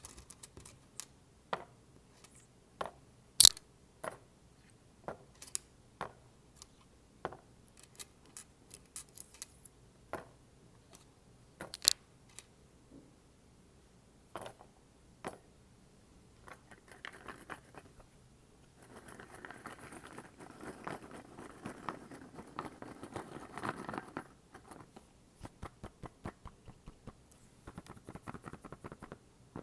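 Metal paper clips clicking against a rubber container: separate sharp clicks for the first half, then about five seconds of continuous scratchy rustling, then rapid light ticks near the end.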